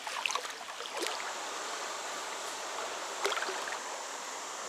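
Stream water rushing steadily over rocks, with a couple of brief sharp sounds about a second and three seconds in.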